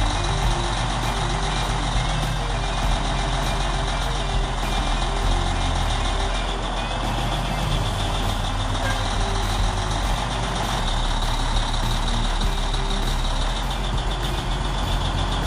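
Heavy diesel engine of a Caterpillar machine running steadily while it lifts a log off a truck trailer, with a steady high whine over the engine noise.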